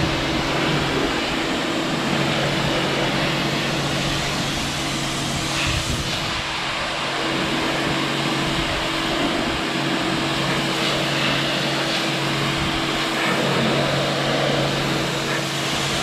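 Tractor engine running at a steady, unchanging speed, a constant droning hum under a wash of mechanical noise.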